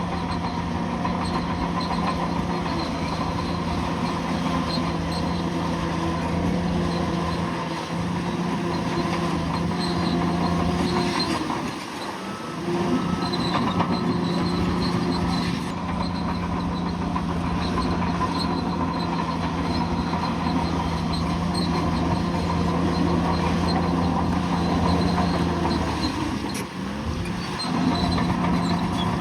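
Bulldozer's diesel engine running steadily under load, with faint high squeaks and clanks from the tracks. The engine note dips briefly twice, near the middle and near the end.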